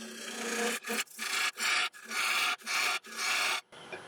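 Turning tool cutting into a spinning sycamore bowl while hollowing it on a lathe: a series of short rasping cuts, about two a second, with brief gaps between them, over the lathe's faint steady hum.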